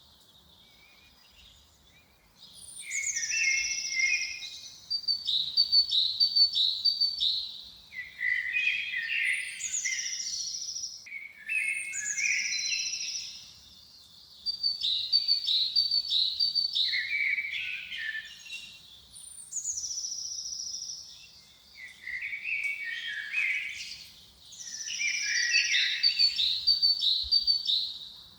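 A songbird singing the same phrase over and over, about six times, each phrase a few seconds long. Each phrase opens with a high falling note, followed by a quick run of repeated notes and some lower warbling.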